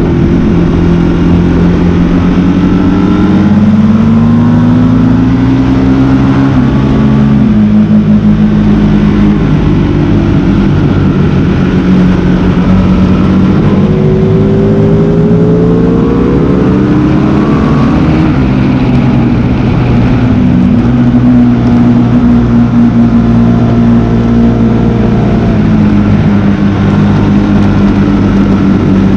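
Sport motorcycle engine heard on board at track speed, its note rising and falling through the revs, with sudden drops at gear changes and a short dip about two-thirds of the way through. A steady rush of noise runs underneath.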